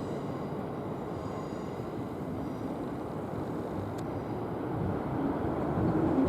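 Electric multiple-unit trains running on the approach tracks below: a steady rumble of wheels on rail that grows louder near the end as a train draws closer.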